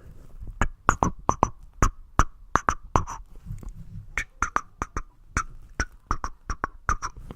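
Close-up ASMR mouth sounds: an irregular run of sharp clicks and pops, about three or four a second.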